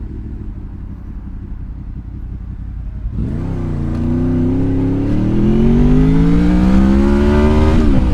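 Honda VFR motorcycle's V4 engine accelerating. A low steady rumble runs for about three seconds, then the revs climb steadily for about five seconds and drop sharply near the end with an upshift.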